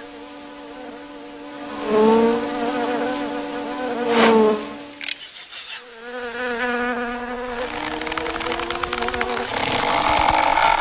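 A steady insect-like buzzing drone. Its pitch swoops at about two and four seconds in, and it climbs slowly through the second half.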